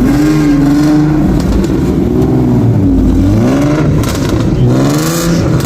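A performance car's engine being revved hard, its pitch swinging up and down several times, with short crackles near the end.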